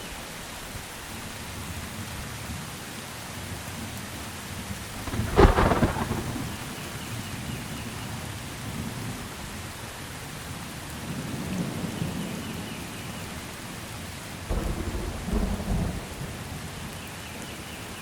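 Steady rain falling with thunder: a sharp, loud clap about five seconds in, then lower rumbles around eleven seconds and again around fifteen.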